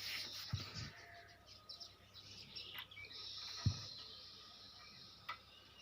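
Faint birds chirping in the background, with a few soft low thumps; the loudest comes about two-thirds of the way in.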